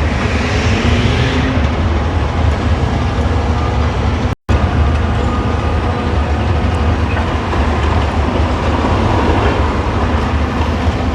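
Demolition excavator's diesel engine running under load with a steady, heavy rumble as it works the wall. The sound drops out completely for a split second about four and a half seconds in.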